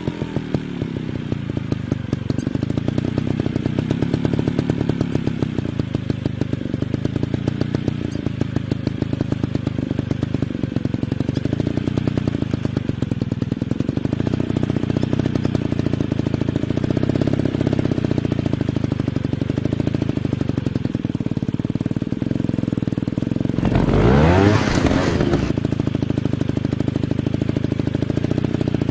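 Dirt bike engine running, its pitch rising and falling with the throttle. About 24 seconds in a bike revs sharply up and back down, the loudest moment.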